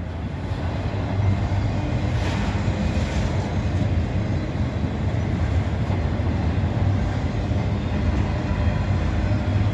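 Freight train cars rolling slowly past close by: a steady low rumble of wheels on rail.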